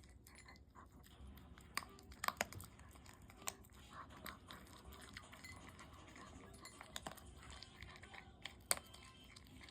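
A Chihuahua eating, chewing and crunching its food, with scattered sharp clicks and clinks, the loudest about two seconds in and again near the end.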